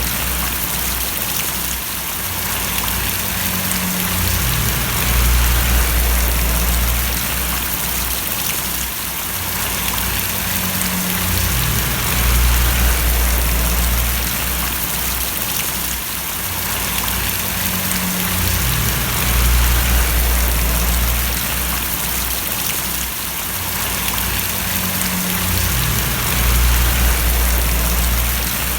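Steady rain splashing, with a low rumble underneath that swells and falls back about every seven seconds.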